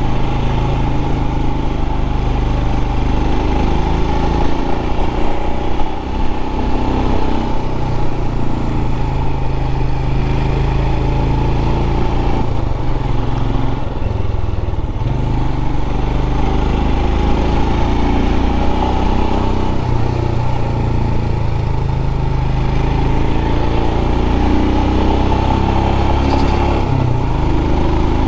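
Royal Enfield 411 cc single-cylinder motorcycle engine running under way, its note rising and falling a few times with throttle and gear changes, over steady wind rush.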